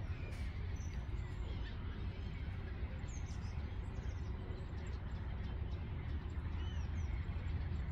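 Steady low outdoor rumble with a few faint, short bird chirps scattered through.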